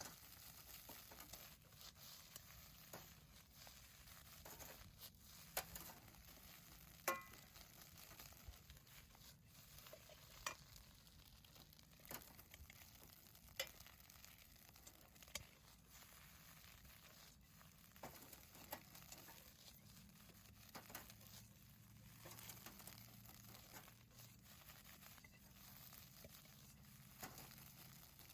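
Fried rice frying faintly in a pan over a campfire, a soft sizzle broken by scattered sharp clicks and taps, a few louder than the rest.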